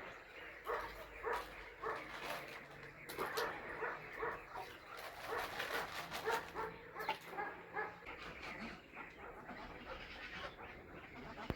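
An animal calling over and over in short pitched calls, about two a second, thinning out near the end.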